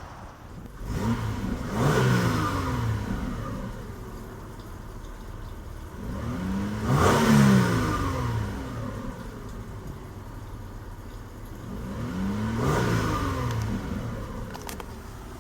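1999 Toyota Solara SLE's 3.0-litre V6 engine revved three times while parked, each time the pitch rising and falling back to idle, with the middle rev the loudest.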